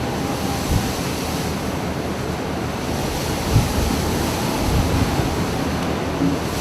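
Storm wind and heavy seas at sea: a steady rushing noise with wind buffeting the microphone, broken by a few brief low thuds, the strongest about three and a half seconds in.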